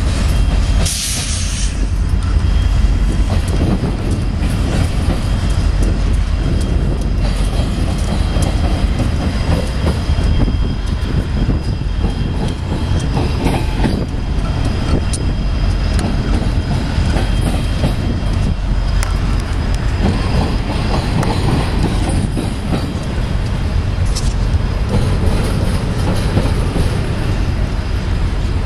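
Union Pacific double-stack intermodal freight train's well cars rolling steadily past at close range. A constant heavy rumble carries wheels clicking over rail joints and a faint steady high whine from the wheels.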